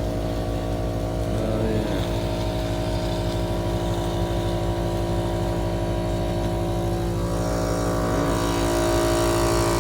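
Diesel engine of a Cat 259D compact track loader running steadily. It grows a little louder about seven seconds in.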